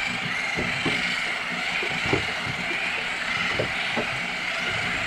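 A motor running steadily, with a few soft knocks.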